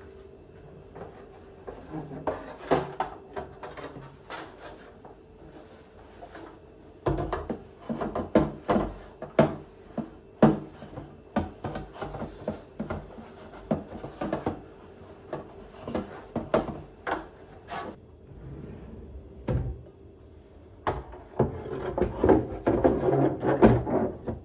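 Household objects being handled: a long run of knocks, taps and clatters as things are picked up and set down, clustered thickly in the second half, over a faint steady hum.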